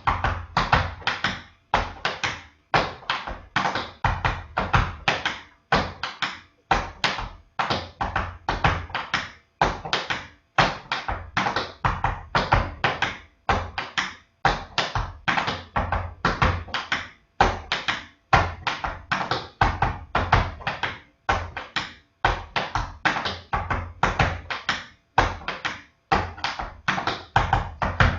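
Tap shoes striking a hard floor in a long unbroken run of quick rhythmic taps, drags and heel drops: a Tack Annie tap sequence danced on the right side, then the left.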